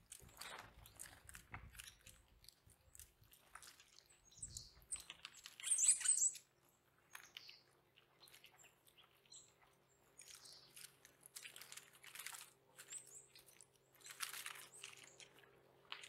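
Songbirds cracking seeds and pecking at a feeder close to the microphone: a run of short crunching clicks, with a few brief high chirps about four to six seconds in, the loudest near six seconds.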